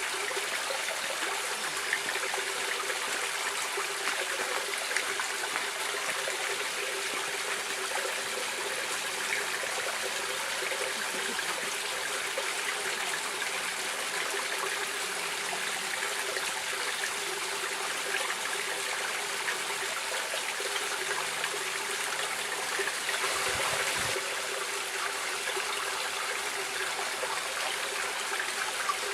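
Running water of a stream, a steady rushing and trickling with a brief swell late on.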